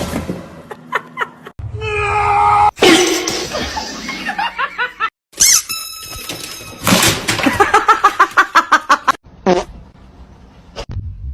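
People laughing across a few quick clips joined by abrupt cuts, ending in a run of rapid, evenly paced laughing.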